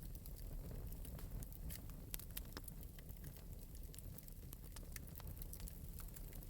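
Wood fire burning in an open metal fireplace, with a low steady rumble of flame and light, irregular crackles and pops.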